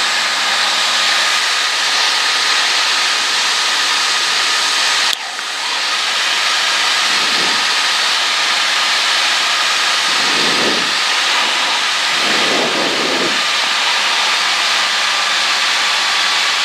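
Cessna 152 cockpit noise in flight: the four-cylinder Lycoming O-235 engine and propeller running steadily at cruise power, with a loud rushing hiss of airflow. The level dips briefly about five seconds in.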